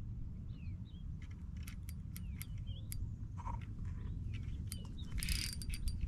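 Small birds chirping in short, quick calls over a steady low rumble, with scattered sharp clicks and a brief loud hiss about five seconds in.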